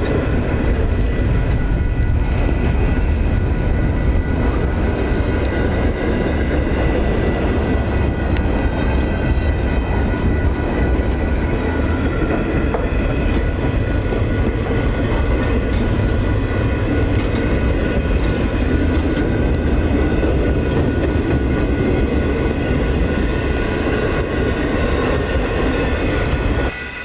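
A train passing, a steady heavy rumble with a few faint steady whining tones over it, which cuts off suddenly at the end.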